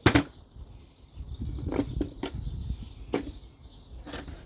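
Hands searching through parts and tools on a workbench: a sharp knock at the start, then handling noise with several clicks and clunks.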